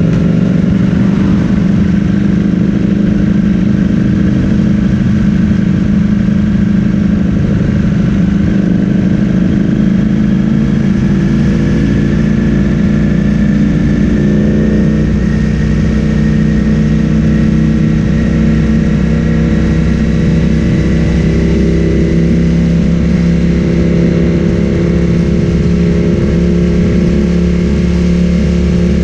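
Ducati Streetfighter V4S's 1103 cc V4 engine through an Akrapovic full-system exhaust, running steadily under way. Its pitch climbs slowly from about ten to fifteen seconds in, then holds level.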